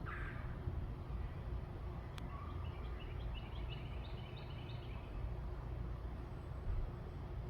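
Backyard birds calling: a harsh call right at the start, then a quick series of short, high chirps for a couple of seconds, over a steady low rumble.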